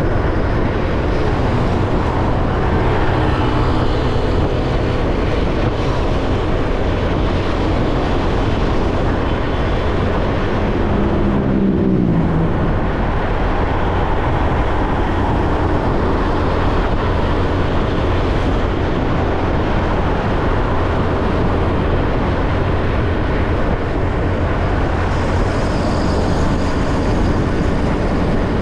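Motorcycle riding at road speed, its engine running under steady wind and road noise. About twelve seconds in, the engine's pitch falls sharply for a moment.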